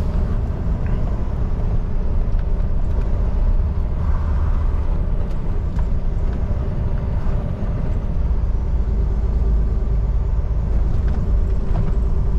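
Semi-truck cab interior: the diesel engine running with a steady low rumble, mixed with road noise and a few faint clicks.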